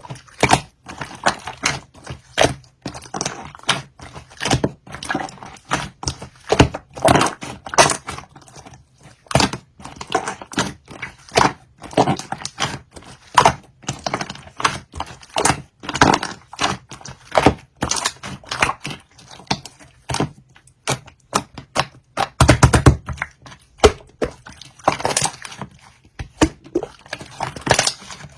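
Slime being squished and kneaded by hand, giving a continuous run of irregular sticky clicks and pops.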